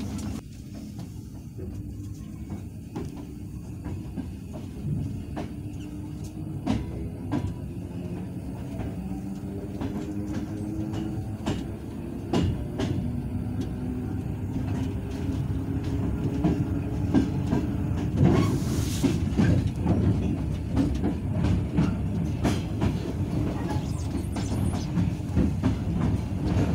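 Passenger train heard from inside the carriage: a steady rumble with sharp clicks of the wheels over rail joints and points, and a faint tone rising slowly in pitch as the train gathers speed, growing louder toward the end.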